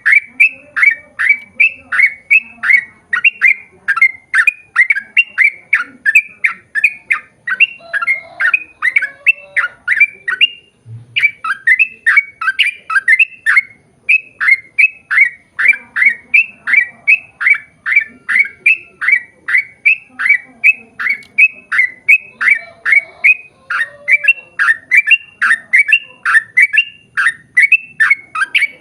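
Yellow-vented bulbul (trucukan) calling in a long, rapid run of loud chirps, about four a second, each note dropping in pitch. There are two brief breaks in the middle.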